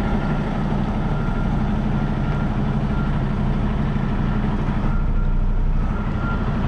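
Semi-truck's diesel engine running steadily at low revs while reversing, with a faint high backup-alarm beep repeating about once a second.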